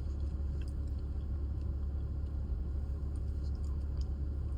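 Steady low rumble of a car engine running, heard from inside the cabin, with a few faint small clicks.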